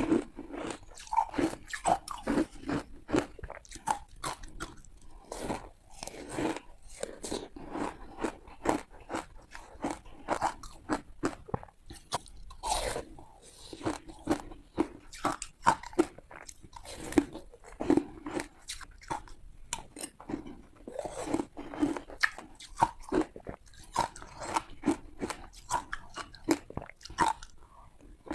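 Teeth biting into and crunching hard ice, a rapid run of sharp cracks and crunches several times a second, with a louder crack about thirteen seconds in.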